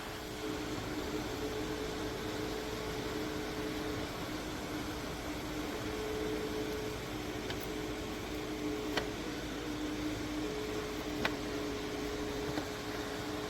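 Small battery-powered USB desk fan running: a steady airy whoosh with a motor hum at two steady pitches, and a few light clicks in the second half.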